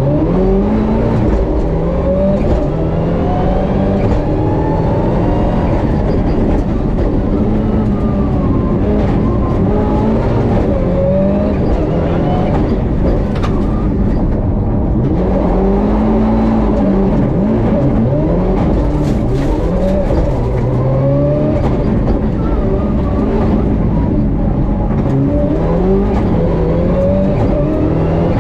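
Mitsubishi Lancer Evolution IX's turbocharged four-cylinder engine heard from inside the cabin at racing pace, its pitch climbing hard and dropping again every few seconds as the car accelerates, shifts and brakes through a slalom course.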